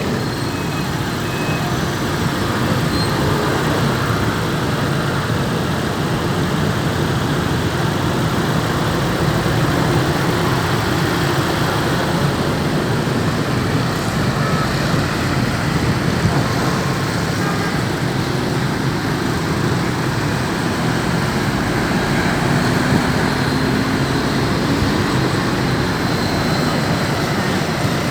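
A small truck's steady engine and road noise as it drives, with a short run of reversing beeps in the first second or so.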